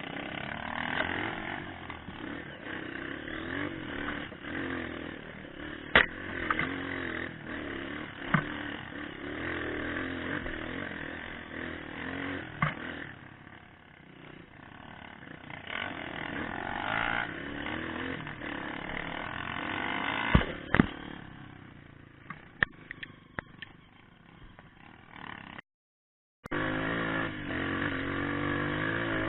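Trail motorcycle engine running, its revs rising and falling, with sharp knocks and clatter now and then. The sound cuts out for about a second near the end, then the engine comes back louder.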